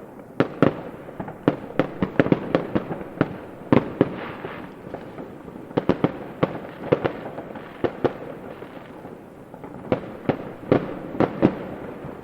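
Fireworks going off: irregular sharp bangs in quick clusters over a steady noisy background, with a short lull about halfway before the bangs pick up again.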